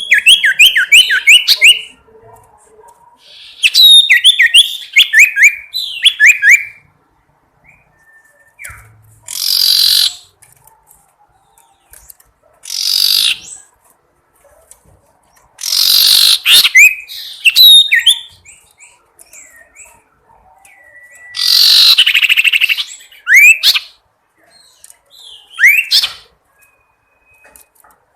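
A sirtu bird calling. Quick runs of falling whistled notes alternate with harsh, hissing screeches about a second long and with single sharp chirps. It is the call said to challenge and summon rival birds.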